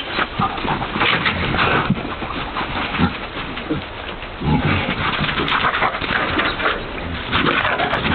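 Animal noises coming in irregular bursts over a steady noisy background.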